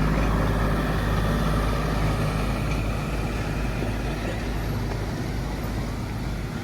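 Steady low rumble of a running motor vehicle, with an even hum underneath, fading slightly toward the end.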